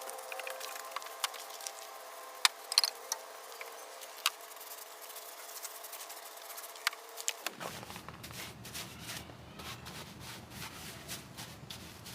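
Boar's-hair wheel brush scrubbing wet engine-bay surfaces, a scrubbing hiss with scattered clicks and knocks as it hits parts. About two-thirds of the way through the sound turns fuller and lower.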